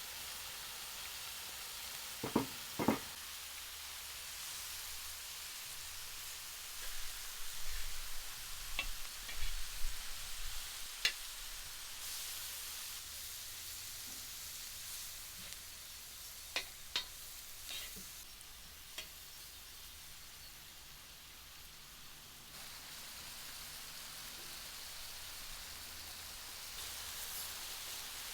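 Food sizzling as it fries, with a few sharp clicks and knocks of a cooking utensil, two loud ones a couple of seconds in and more scattered later.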